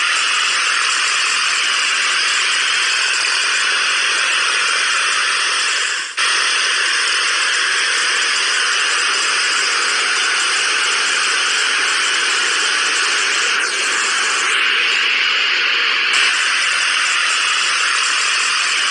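A steady, even hiss with no pitch or rhythm, dipping briefly about six seconds in.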